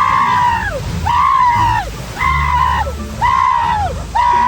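A person screaming over and over, about once a second, each scream held and then dropping off in pitch.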